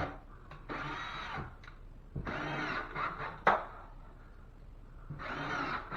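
Cordless drill driving drywall screws through a ceiling patch: three short runs, each under a second, the motor's whine rising and falling as it spins up and loads, with a sharp click between the second and third.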